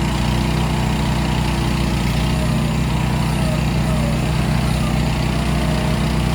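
The 420 cc gasoline engine of a CFG Industrial MX20R mini excavator running steadily at an even speed.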